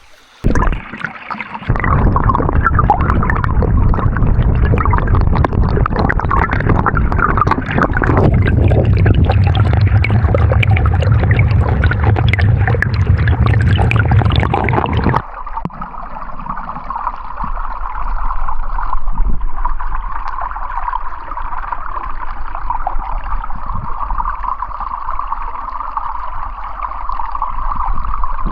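Creek water sloshing and splashing close by, loud and churning for about the first fifteen seconds, then after a sudden change a steady rush of flowing creek water.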